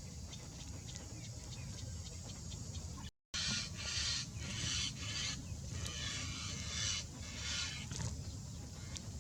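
Birds calling: after a brief cut about three seconds in, a series of harsh squawks, each about half a second long, over a low steady rumble.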